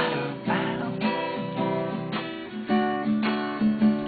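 Acoustic guitar strummed in chords with a regular rhythm, a fresh strum about every half second.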